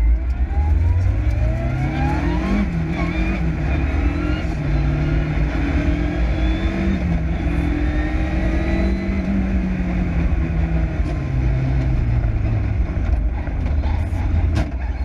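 Onboard sound of a Group A Lancia Delta Integrale's turbocharged four-cylinder engine driven hard, heard from inside the car. Its pitch climbs and drops at a gear change about two and a half seconds in, stays high through the middle, falls away as the car slows around ten seconds in, and starts climbing again at the very end.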